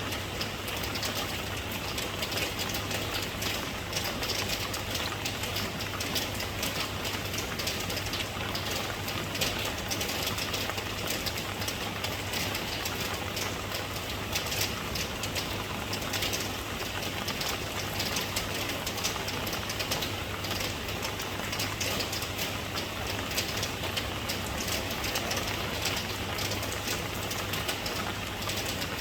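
Steady rain falling, a dense hiss of many small drop taps, with a low steady hum underneath.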